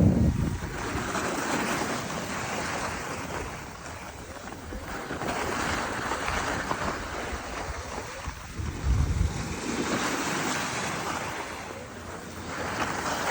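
Wind rushing and buffeting the microphone, a hiss that swells and fades every few seconds, with a low gusty thump about nine seconds in.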